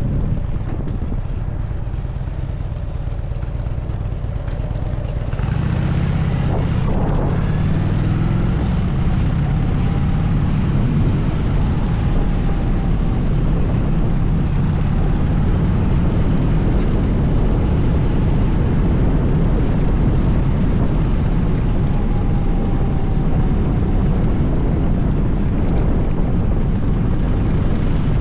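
Harley-Davidson Dyna Super Glide's V-twin engine running while riding, with wind rushing over the microphone. The engine gets louder about five seconds in and holds there.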